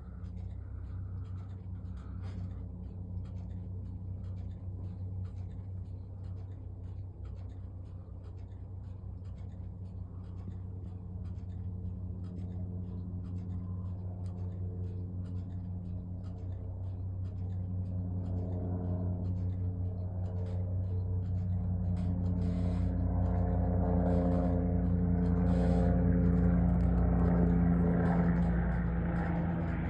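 Helicopter flying overhead: a steady low drone of several even tones that grows steadily louder through the second half, peaks near the end and eases off slightly just before the close.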